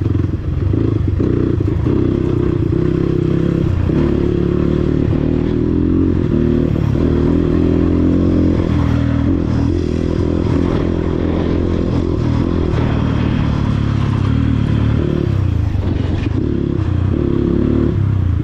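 Dirt bike engine running while riding, its pitch rising and falling as the throttle opens and closes.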